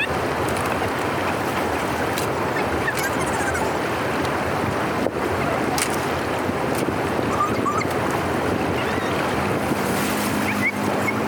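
Water rushing steadily in a continuous loud wash, with a few faint high chirps over it.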